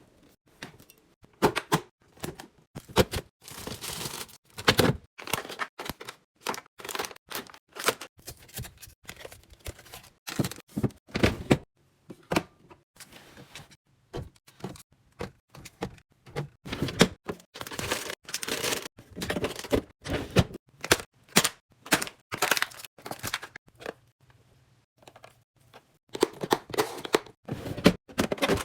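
Groceries and containers being set down and arranged in a refrigerator: irregular knocks, clacks and thunks, at times several a second, with a brief lull near the end.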